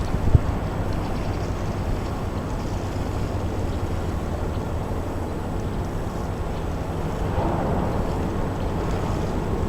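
Steady low engine drone under a broad outdoor rumble of wind and harbour noise, with a brief knock just after the start.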